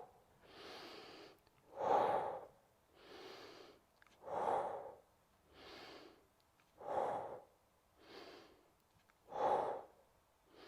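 A woman breathing steadily in time with a slow bodyweight core exercise: four louder out-breaths about two and a half seconds apart, each with a softer in-breath between them.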